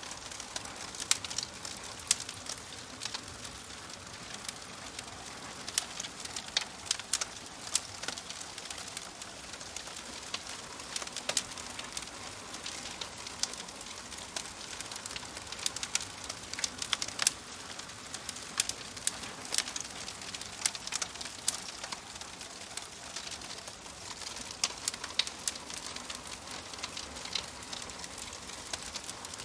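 Wood fire crackling in a fireplace: a steady soft hiss broken by frequent sharp, irregular pops and snaps.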